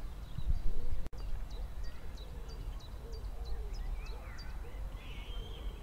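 A small bird singing a run of short, high, falling notes, about three a second, with other birds calling faintly, over wind rumbling on the microphone.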